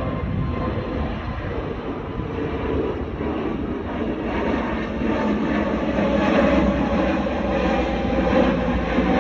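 Jet airliner engines at takeoff power, a steady rushing noise that grows louder from about halfway through.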